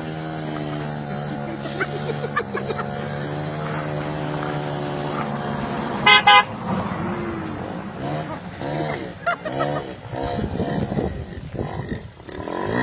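An engine running steadily, then one short, loud horn toot about six seconds in. In the second half a pitched sound rises and falls several times.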